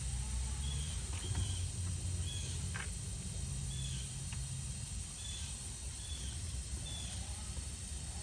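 Short high chirps, repeated roughly once a second, over a steady low rumble and hiss.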